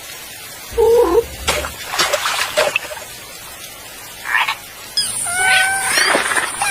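A string of short animal-like calls and cartoon sound effects, starting with a brief pitched call about a second in. A steady high-pitched tone begins about five seconds in.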